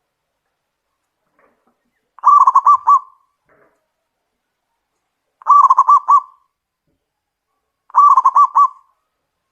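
Zebra dove (perkutut) calling: three cooing phrases, a few seconds apart, each a quick run of about four notes.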